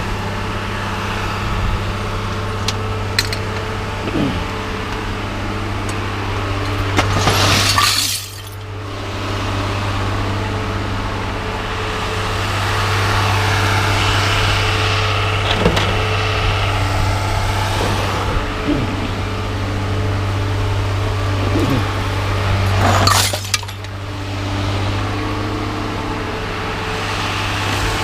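A vehicle engine idles steadily while scrap metal is unloaded, with scattered knocks and two loud crashes of scrap tumbling down, about seven seconds in and again about twenty-three seconds in.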